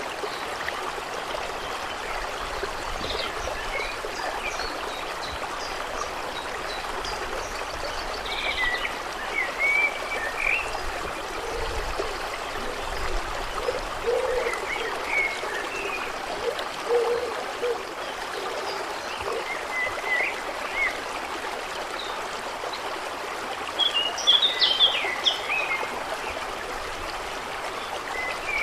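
Steady water sound of a lake shore ambience, with scattered short bird chirps throughout and a brief flurry of chirping near the end. A few short low calls sound in the middle.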